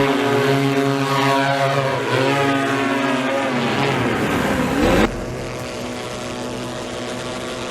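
Electric multirotor hoverbike propellers buzzing in flight, their pitch sliding up and down as the rotor speeds change. About five seconds in the sound cuts to a quieter, steady drone.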